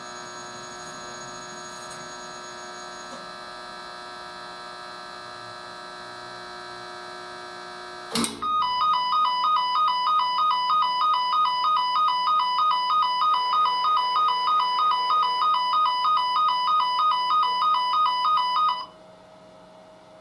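Drum washing machine running with a steady electric hum, then a click about eight seconds in and a loud electronic alarm beeping in two alternating pitches, about three beeps a second, for some ten seconds before cutting off, leaving a quieter hum: the machine signalling the end of its cycle.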